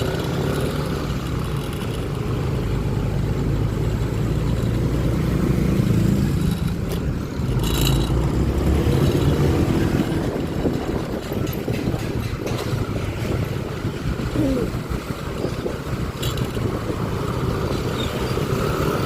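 Honda Click 125i scooter's single-cylinder engine running while riding, with road and traffic noise around it.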